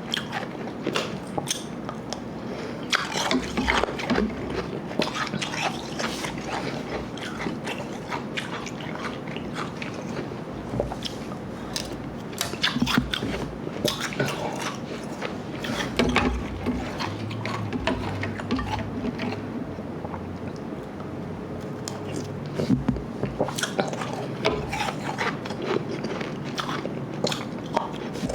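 Close-up chewing of ice: a dense, irregular run of crunches and wet crackles as soft slush ice mixed with harder Igloo ice is bitten and chewed.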